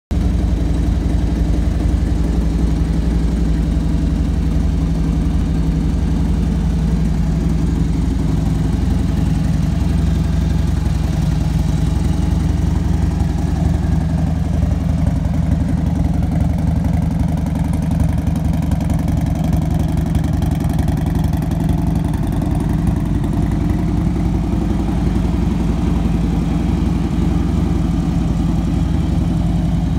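2015 Harley-Davidson Dyna Switchback's air-cooled Twin Cam 103 V-twin idling steadily.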